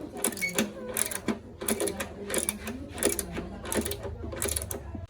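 Rhythmic mechanical clicking, about two to three sharp strokes a second, over a steady low hum, cutting off abruptly at the end.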